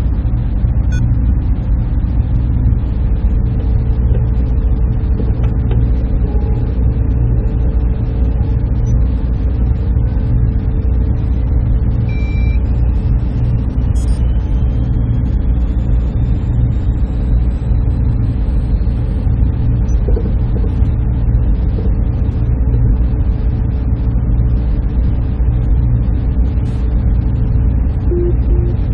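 Server room ambience: the steady hum and rush of cooling fans and air handling, with a constant low drone and a faint held tone. Two short beeps sound near the end.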